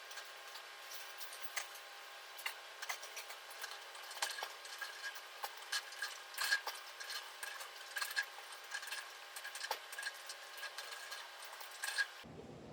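Irregular light clicks and creaks with the engine off, as the backhoe's hydraulic controls are worked to relieve pressure in the lines and the unit settles to the ground.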